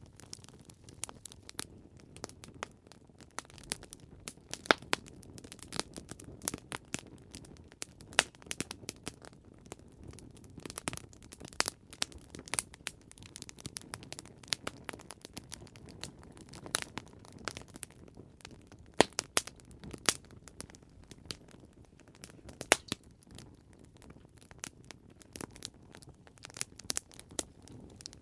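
Campfire burning with irregular sharp crackles and pops from the burning wood over a low steady rumble of the flames.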